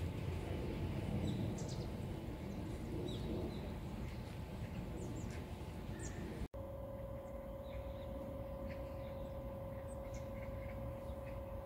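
Outdoor ambience with scattered short, high bird chirps over an even low background noise. The sound cuts out abruptly about six and a half seconds in, and a steady hum runs under the chirps after that.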